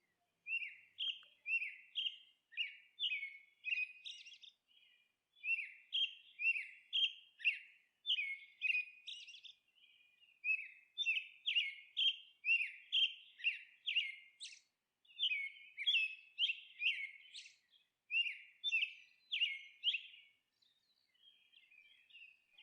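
A small bird chirping: short, high, falling chirps about two a second, in runs of three to five seconds with brief pauses between.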